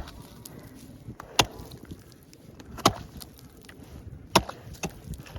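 Thick pond ice being chopped open with heavy blows, four sharp strikes about a second and a half apart.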